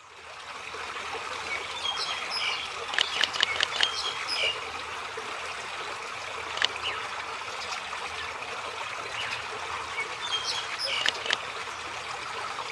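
Steady trickle of running stream water, with short high bird chirps in small clusters about two to four seconds in, once near the middle and again near eleven seconds.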